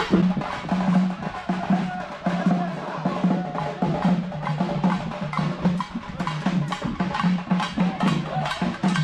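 Fast percussion from a festival drum ensemble: rapid, dense drum strokes over a repeating deep beat.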